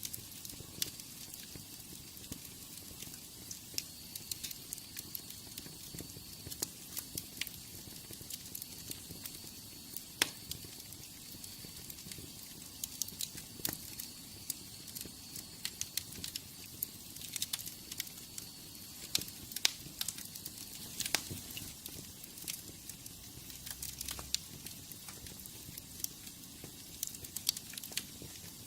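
Wood fire in a fireplace crackling: irregular sharp pops and snaps over a steady hiss of the flames, with a faint high whistle through the first half.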